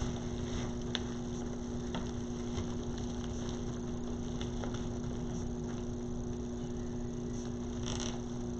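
A steady hum with faint, scattered clicks and rustles of ribbon and pipe cleaners being handled and twisted onto a wreath.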